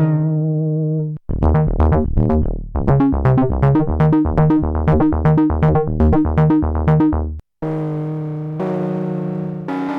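Arturia MicroFreak synthesizer playing presets. A held chord ends about a second in, followed by a fast sequence of short plucked notes over a bass line that stops abruptly. After a brief gap, a new sustained chord patch with a hissy top comes in and changes chord.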